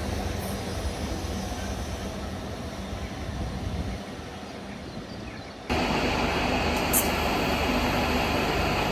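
Electric passenger train running through, its steady rushing noise fading away. About two-thirds of the way in, the sound cuts abruptly to a louder steady rushing noise with a few sharp clicks.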